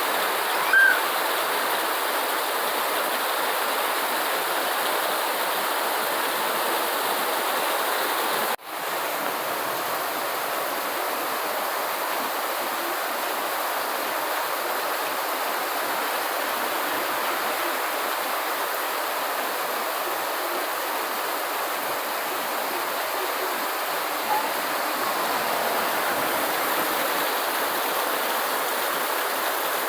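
Steady heavy rain, an even hiss of falling water, with a short high-pitched chirp about a second in and a brief dropout of the sound a little over 8 seconds in.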